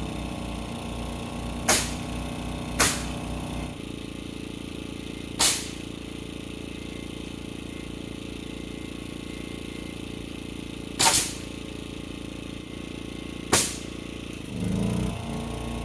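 Pneumatic framing nailer firing single shots, five sharp reports spaced irregularly, each about a fifth of a second, over a steady low hum.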